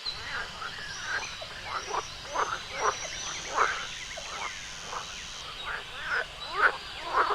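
Frogs croaking: a run of short, quick calls at varying pitches, over a steady high tone that stops a little past halfway.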